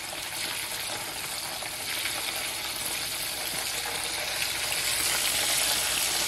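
Egg rolls sizzling as they shallow-fry in hot oil in a skillet while they are turned over, the sizzle growing gradually louder.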